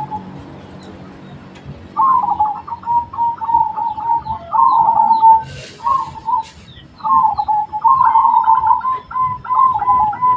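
Zebra dove (perkutut) cooing in repeated phrases, starting about two seconds in, with a short break about halfway. Faint high chirps of small birds sound behind it, and a brief hiss comes just before the break.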